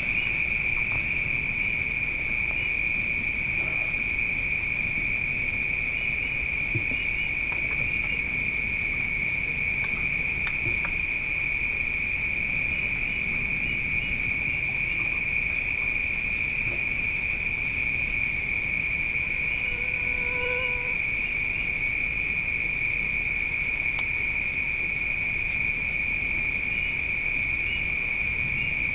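A steady, unbroken chorus of night insects, a continuous high-pitched trilling in two bands. About two-thirds of the way in, a faint short pitched call sounds briefly.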